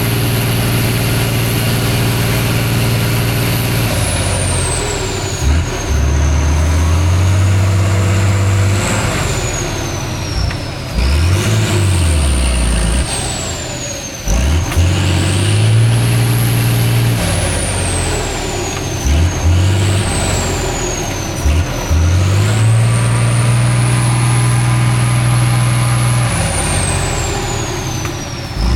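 Heavy off-road trial truck's diesel engine revving up and falling back again and again under load, with a high whine that rises and falls along with the engine speed. Brief sharp sounds break in between the revs several times.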